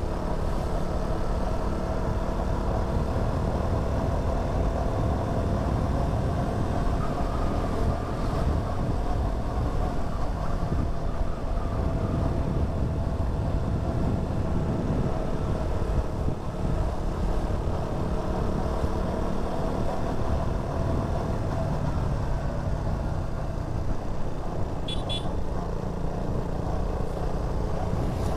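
KTM Duke 200's single-cylinder engine running steadily under way, with wind and road rumble on the mic. A brief high-pitched horn beep near the end.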